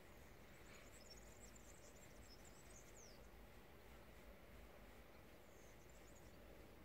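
Near silence, with faint high chirping of small birds in two short spells, the first with a few quick falling notes.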